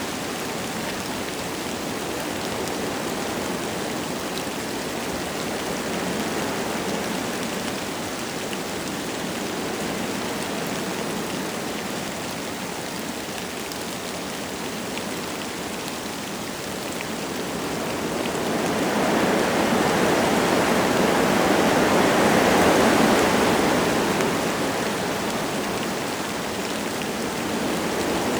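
Wind blowing through forest trees with light rain falling, a steady rushing. About two-thirds of the way through, a stronger gust swells up and dies back down.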